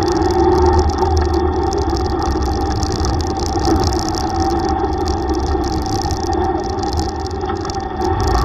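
Yamaha YTX125 tricycle's single-cylinder engine running steadily while riding, over a steady hiss.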